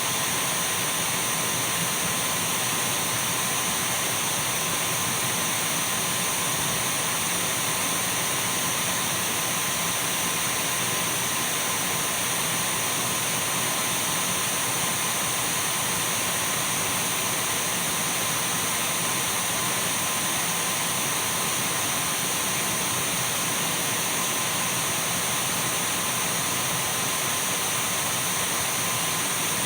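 Dyson V12 cordless stick vacuum cleaner running steadily at a constant speed: an even rush of air with thin, steady high-pitched whines from the motor.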